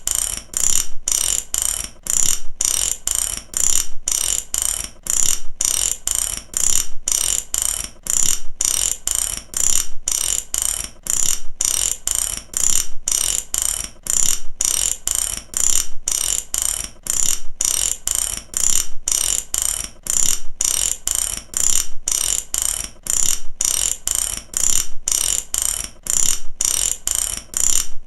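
Mechanic's ratchet wrench clicking in a fast, even run of sharp metallic pawl clicks, about six or seven a second, in repeating groups with brief pauses between.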